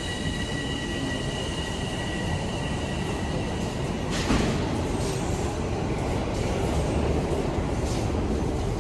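TTC Line 1 subway train at the platform, its high steady whine of several tones cutting off about four seconds in, followed by a short hiss, over a constant low rumble of the station.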